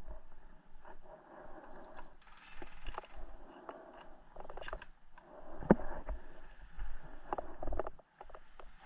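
Rustling and scraping of an airsoft player's clothing and gear as he moves, with scattered clicks and one sharp, loud click a little past halfway.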